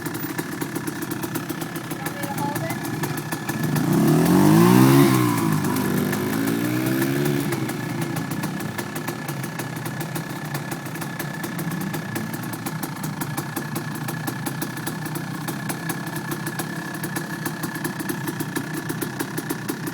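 Dirt bike engine running at idle, with a louder burst of revving about four seconds in that rises and falls twice before settling back to idle.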